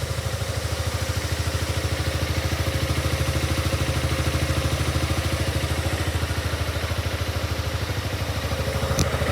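2007 Yamaha Maxam (SG21J) scooter's single-cylinder engine idling steadily with an even, rapid pulse, and one brief click about nine seconds in.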